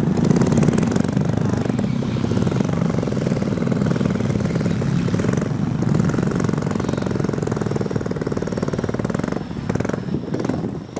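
Diesel engine of a Mitsubishi Canter light truck running hard and steadily as it works through mud, easing off a little near the end.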